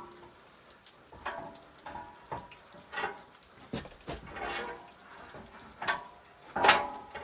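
Hand tools and metal parts being worked on a riding mower's engine: a string of uneven clinks and scrapes with a short ring to some of them, the loudest near the end.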